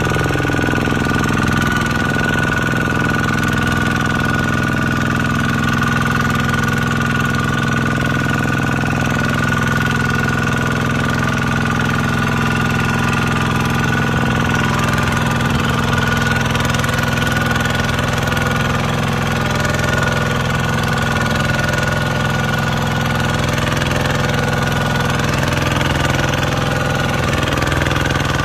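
Tractor engine running at a steady idle, with a steady high whine above the engine note.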